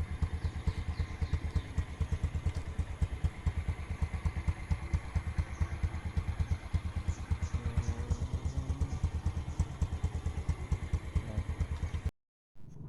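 Spinning propeller of a rubber-band-powered model airplane in flight, making a fast, even, low fluttering.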